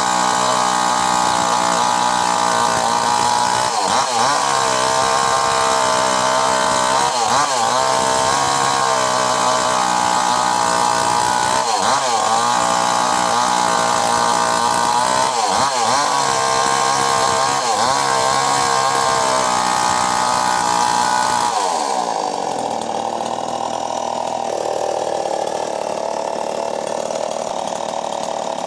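Mini chainsaw running continuously with a steady motor pitch. About three-quarters through, it turns quieter and duller.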